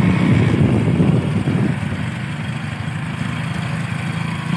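Motorcycle engine running at low revs, loudest for the first second and a half, then dropping to a quieter steady idle-like run.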